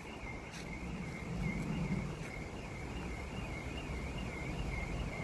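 Outdoor background: a steady low rumble under a continuous high warbling tone that rises and falls about twice a second.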